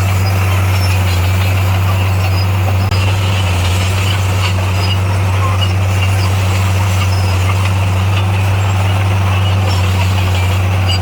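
Bulldozer's diesel engine running at a steady, loud drone.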